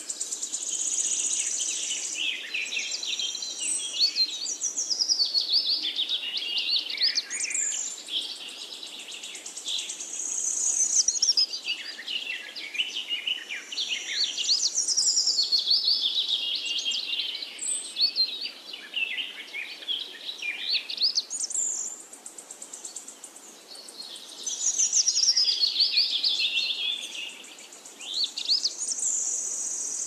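Songbird song: long bursts of rapid chirps and whistles sweeping up and down, with short gaps between the bursts.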